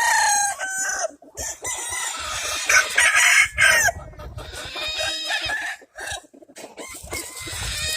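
Gamefowl roosters crowing and clucking, several birds calling over one another.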